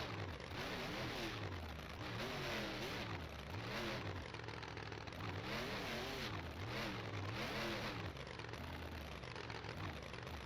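Monster truck engine revving hard again and again, its pitch climbing and dropping several times in quick succession.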